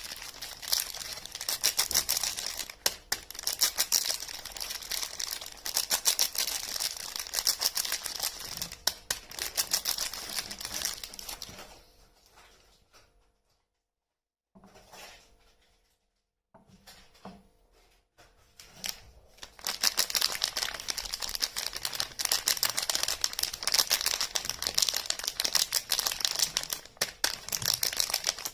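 Soap packaging crinkling and tearing as bars of soap are unwrapped by hand, a dense run of fine crackles. About halfway through it thins to faint rustling and drops out briefly twice, then crackles densely again.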